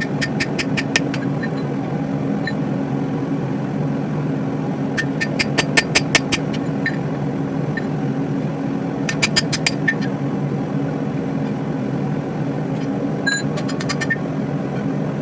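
Hammer blows on hot steel at the anvil during rough forging, in quick runs of several ringing strikes about seven a second, four runs in all. Under them runs a steady low hum from the running forge.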